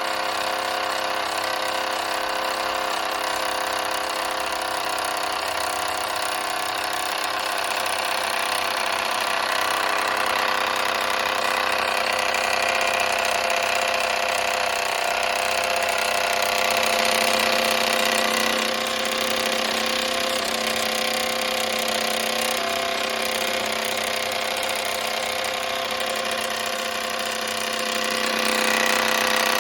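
Mamod SE1 toy steam engine running steadily at speed, its single oscillating cylinder making a fast, even whirr with a hiss of steam.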